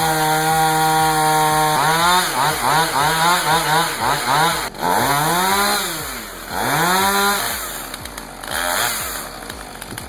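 Two-stroke chainsaw running at a steady high pitch, then revved up and down in quick repeated bursts. It is cutting a back-leaning tree whose cut is pinching the chain.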